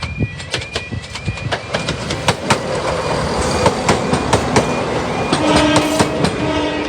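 East Midlands Railway Class 170 Turbostar diesel multiple unit passing over the level crossing, its wheels clicking over the rail joints, with the train noise building about two seconds in. The crossing's warbling yodel alarm repeats about twice a second throughout, and a steady low tone comes in near the end.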